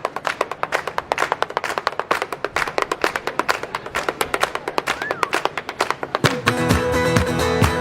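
Rapid, rhythmic shoe taps on a hard floor: a solo footwork break with no accompaniment. Acoustic guitar strumming comes back in about six seconds in.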